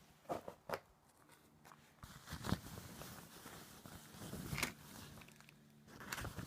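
Footsteps crunching in snow: a handful of slow, uneven steps, each a short crunch a second or two apart.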